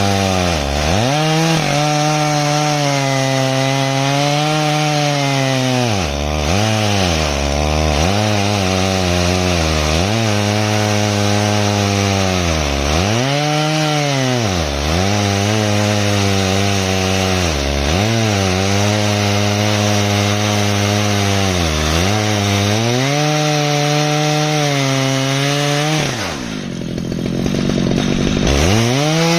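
Stihl MS 881 two-stroke chainsaw on an Alaskan mill running at high revs through an ash log. Its pitch dips briefly again and again as the engine bogs under the load of the cut. Near the end the revs fall away to a low pitch for a couple of seconds, then climb back up.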